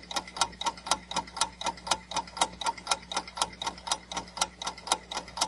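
Countdown-timer sound effect: clock-like ticking, rapid and perfectly even, over a faint steady hum.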